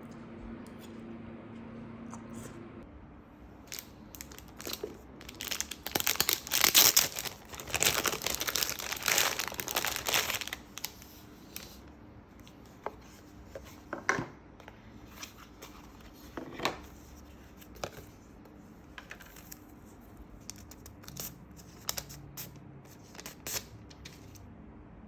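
Packaging being unwrapped by hand: a long stretch of crinkling and tearing of paper and plastic wrap early on, then scattered short crinkles and light taps as the package is handled.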